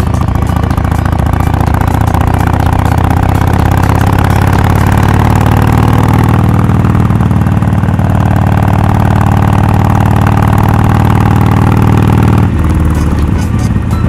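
Harley-Davidson Sportster XL1200X Forty-Eight's air-cooled V-twin running steadily under way through a Rinehart 3-inch slip-on exhaust with a quiet baffle, heard from the rider's position with wind hiss. The note drops and softens briefly about twelve and a half seconds in.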